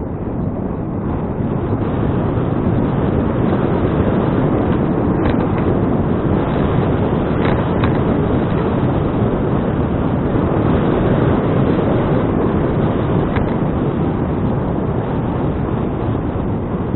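Wind rushing over an action camera's microphone while riding a bicycle: a loud, steady rush with a few faint clicks.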